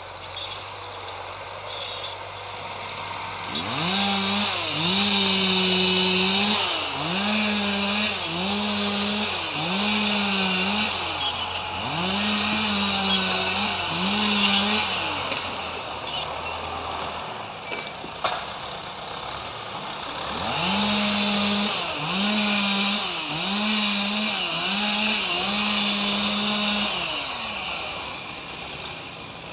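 Two-stroke chainsaw revved again and again in short bursts of about a second each, in two runs with a pause between them. A low steady engine hum runs underneath for the first half and stops about halfway through.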